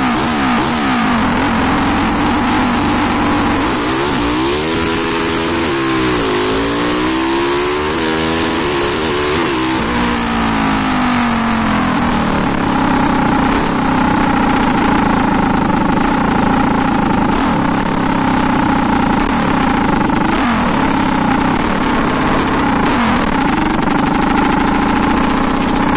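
A 400cc engine revved up and down several times, its pitch rising and falling, then settling about halfway through into steady running at a constant speed.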